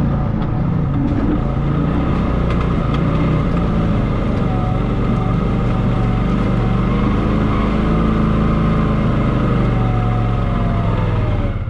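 Engine of a small off-road side-by-side running steadily under light, varying throttle, its pitch drifting gently up and down.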